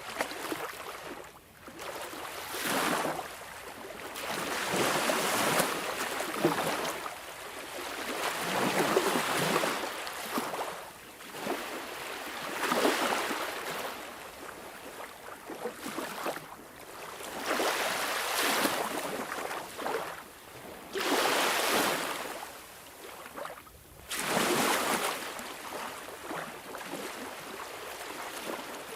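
Sea waves washing in and drawing back, the surf swelling and fading every few seconds.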